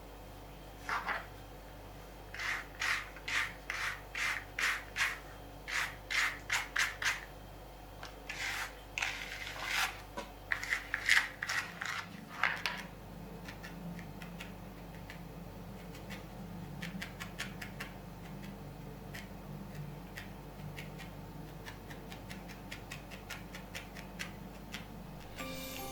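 Repeated scratchy rubbing strokes, about one or two a second, of wool being worked by hand for felting. After about twelve seconds they give way to fainter, lighter scratches.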